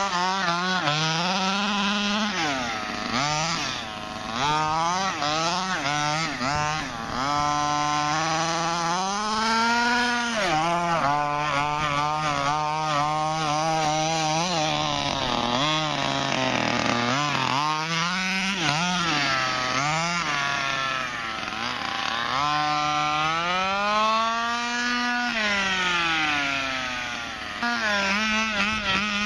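Two-stroke petrol engine of an HPI Baja 5B RC buggy, fitted with a cone air intake and dual exhaust, revving up and falling back over and over as it is driven hard, its pitch rising and dropping every second or two.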